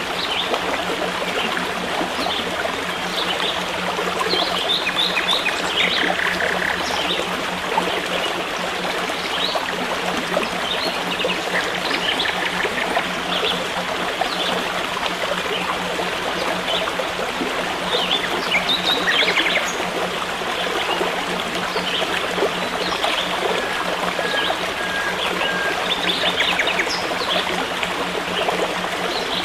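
A stream of water flowing and trickling steadily, with small birds chirping and trilling in short calls over it and a steady low hum underneath.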